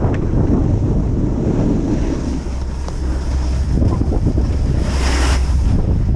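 Gusty mountain wind buffeting the microphone with a heavy low rumble, during a snowboard descent in a blizzard; a brief hissing rush about five seconds in.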